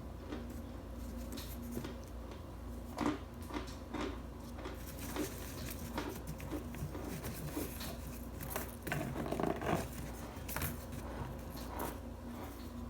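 Compressed starch crunching: irregular crisp cracks, with a quicker run of them about nine seconds in, over a steady low hum.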